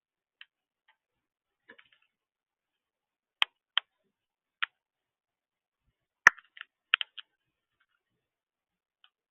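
A sparse series of short, sharp clicks or ticks, about six in all: a pair a little before the middle, one shortly after, then the loudest click followed by a quick cluster of smaller ones a little past the middle.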